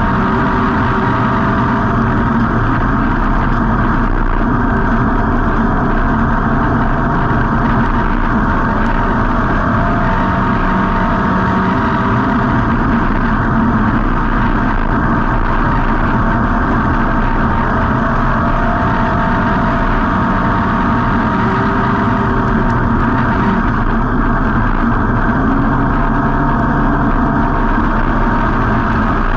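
Street stock race car's V8 engine running steadily, heard from a camera mounted inside the car.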